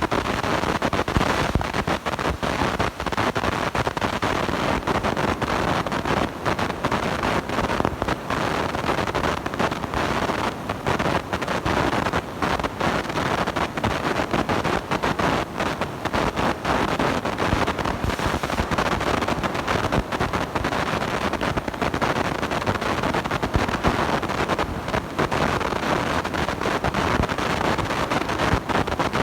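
Harsh crackling noise from a blown, distorting microphone: a dense hiss and rumble full of rapid clicks and pops, at a steady level.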